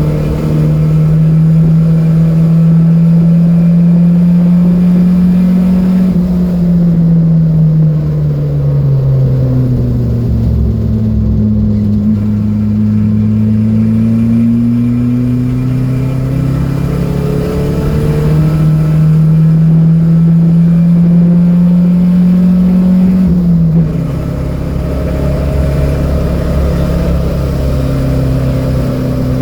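Datsun B210 engine running hard on track, its pitch climbing slowly, sagging for several seconds in the middle, then climbing again and dropping suddenly a few seconds before the end.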